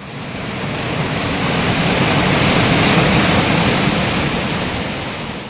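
Heavy rain pouring down in a steady, loud rush that swells to a peak about three seconds in and then fades away near the end.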